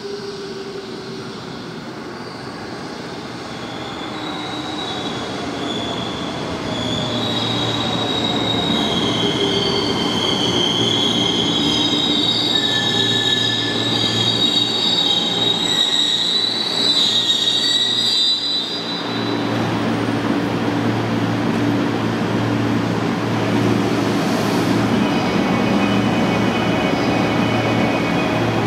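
JR 205 series electric train braking into a station, its wheels and brakes squealing in high, shifting tones as it slows. The train stops about 18 seconds in, after which the standing train gives a steady low hum.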